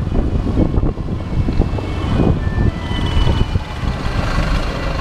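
A motorcycle riding in city traffic: the bike's engine running steadily, mixed with the sound of other vehicles around it.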